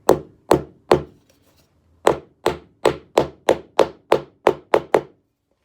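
Hammer tapping a glued teak wooden plug down into its hole in a teak deck. Three taps, a pause of about a second, then about ten quicker taps at roughly three a second, which stop shortly before the end.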